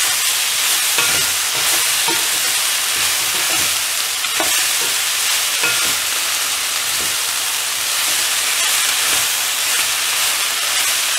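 Broccoli, potato and coriander frying in oil with a steady sizzle, stirred with a wooden spatula that knocks and scrapes against the pan now and then.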